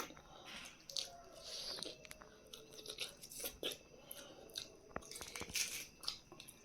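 A person chewing and biting food close to the microphone: irregular crunches and wet clicks.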